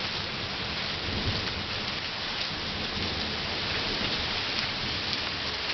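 Steady heavy rain falling on outdoor surfaces, the downpour that continues right after a brief hailstorm has stopped.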